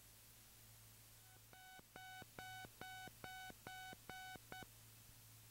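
Aircraft avionics alert tone: a faint series of about seven identical single-pitch beeps, roughly two a second, stopping abruptly.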